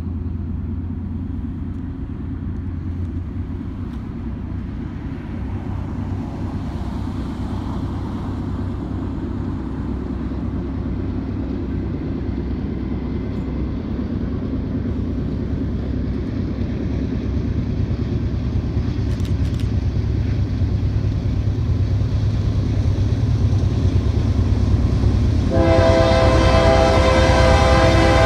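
Approaching train: a low, steady rumble grows louder, then the train's horn sounds a chord of several notes about two and a half seconds before the end, held to the end.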